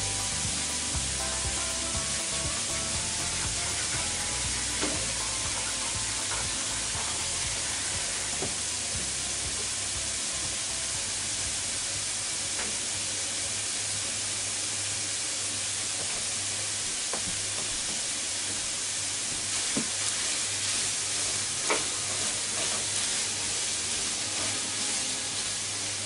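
Bean sprouts and carrot sizzling steadily in a frying pan over a gas flame, with a few faint clicks and pops.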